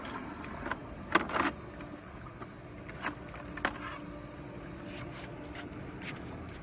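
A few clicks and knocks from handling the robotic pool cleaner's plastic filter baskets, the loudest about a second in, with quieter ones spaced out after.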